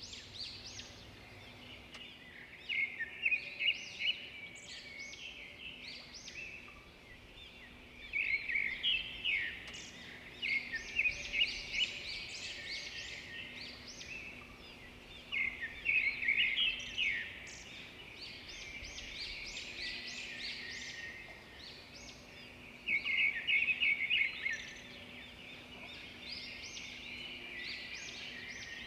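Zebra finches calling: flurries of short, high calls every few seconds, with quieter chatter between them.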